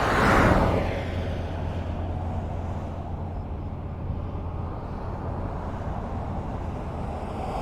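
Highway traffic: a vehicle passes close by about half a second in and fades, leaving a steady rumble of road traffic until the next one approaches near the end.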